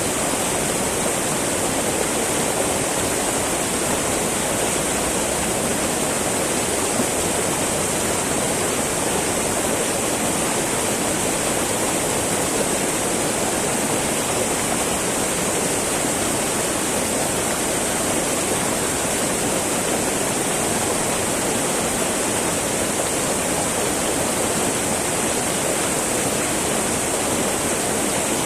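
Small mountain river babbling over rocks, a steady rushing flow of water with no change throughout.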